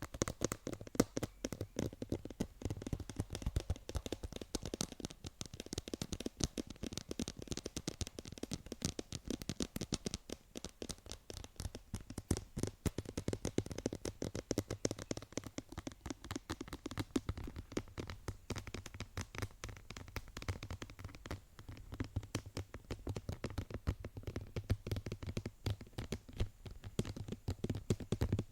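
Fingertips tapping and scratching rapidly on a surface: a dense, continuous patter of small clicks and scrapes.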